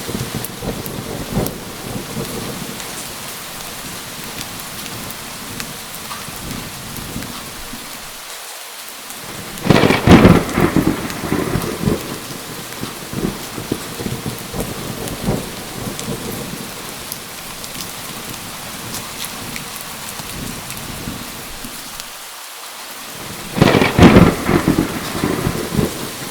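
Steady heavy rain with two loud claps of thunder, one about ten seconds in and one near the end, each rumbling and crackling for a few seconds before fading back into the rain.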